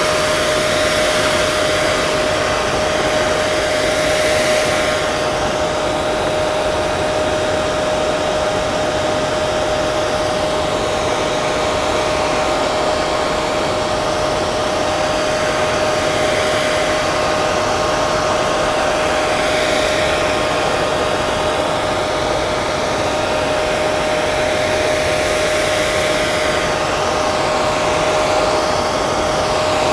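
Hair dryer running continuously: a steady rush of blown air with a constant motor whine, the upper hiss shifting a little now and then.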